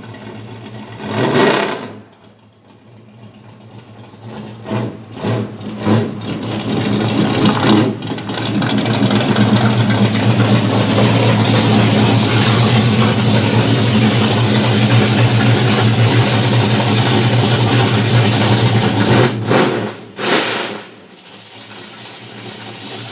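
Modified Firebird's stroker V8 running under way: it builds over a few seconds to a steady, loud drone that holds for about ten seconds, then eases off with two short blips near the end.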